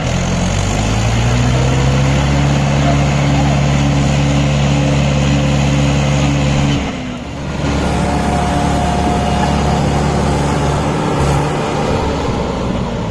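Tractor diesel engine running hard, its pitch rising about half a second in and holding steady, dropping briefly around seven seconds in before picking up again.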